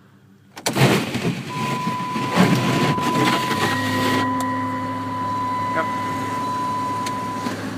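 A 2010 Dodge Grand Caravan's 3.3-litre V6 is cold-started at about −10 °F. It fires almost at once, about a second in, and runs fast and uneven for a few seconds. Around four seconds in it settles into a steadier idle. A thin, steady warning tone sounds alongside it.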